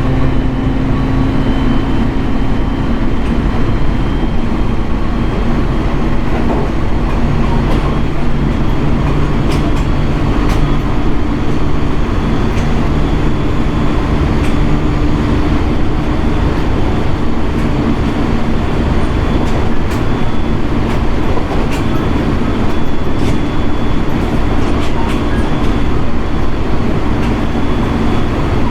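JR East 701 series 1000-subseries electric train running along the line: a steady rumble of wheels on rail with a constant low hum, and scattered sharp clicks of wheels over rail joints.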